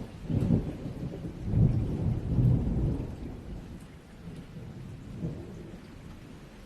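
Thunder rolling over steady rain: a deep rumble that swells several times in the first three seconds, then dies away under the patter of the rain.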